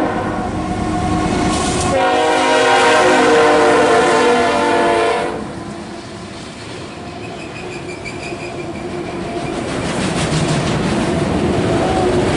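CSX freight locomotive's multi-chime air horn blowing a long blast, loudest from about two seconds in until it cuts off at about five seconds. Then the rumble and clatter of the train's wheels on the rails grow louder as the train approaches.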